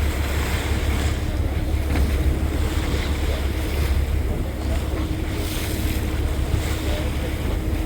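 Tour boat's engine running with a steady low rumble and a faint steady hum, with wind buffeting the microphone and water rushing past the hull.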